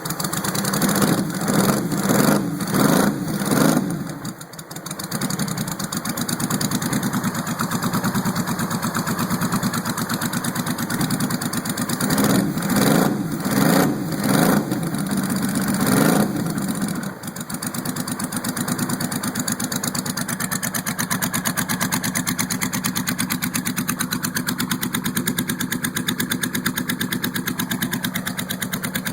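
Supercharged Honda Valkyrie's flat-six engine with Two Brothers cams and exhaust, running on choke just after a cold start. It is blipped up in quick revs in the first few seconds and again around twelve to sixteen seconds in, then settles into a steady idle.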